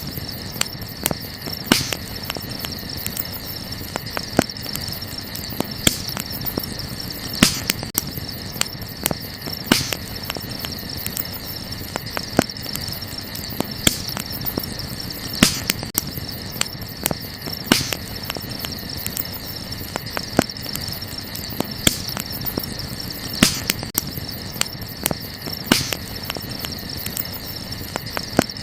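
Burning wood crackling in a campfire, with sharp pops every second or two over a light steady crackle. Crickets chirp steadily in the background.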